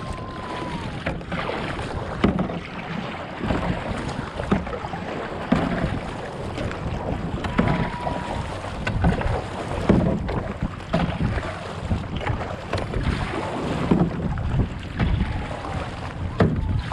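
Kayak paddle blades splashing and dipping in lake water in irregular strokes, with wind buffeting the microphone.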